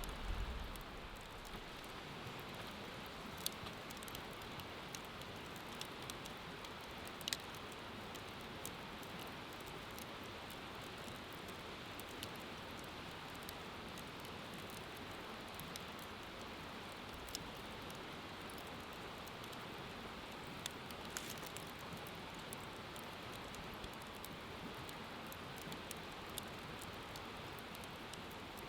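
Wood bonfire crackling, with a few sharp pops standing out above a steady wash of noise.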